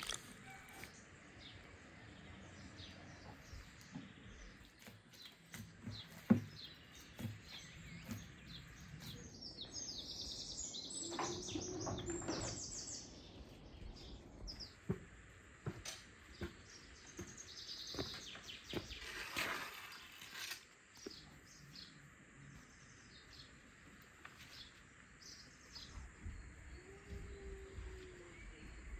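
Songbirds chirping and singing in quick high runs, with a few short knocks and light rustling in between.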